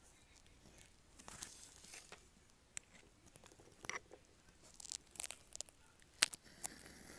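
Metal nib of a dip pen scratching across paper in short, irregular strokes, with a few sharp ticks.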